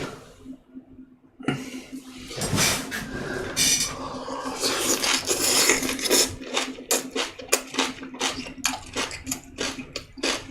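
Close-miked mouth sounds of a person chewing a bossam wrap of boiled pork and garlic: wet smacking and chewing, which turn from about four seconds in into a quick run of sharp clicks, some three to four a second.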